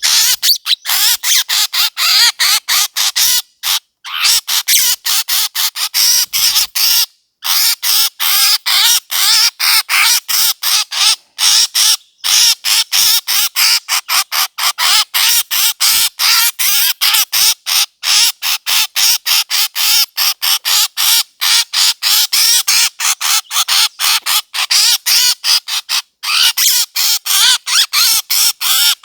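Bird-call lure recording: short, harsh bird calls repeated rapidly, about three to four a second, with a few brief breaks, played to draw birds in for hunting.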